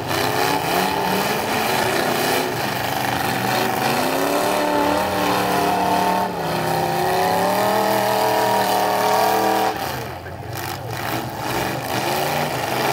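Demolition derby cars' engines revving hard, the pitch climbing and holding high several times, then falling away about ten seconds in.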